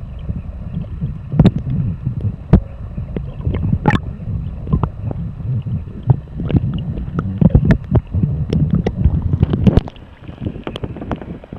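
Water splashing and sloshing around a kayak in irregular sharp strokes, over a low rumble of wind buffeting a keychain camera's small microphone; it gets quieter near the end.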